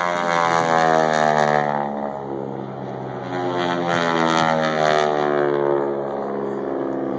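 Aerobatic propeller airplane's engine and propeller. The pitch slides down, rises again and falls as the plane dives and climbs through its manoeuvres. It is loudest about a second in and again around four to five seconds in.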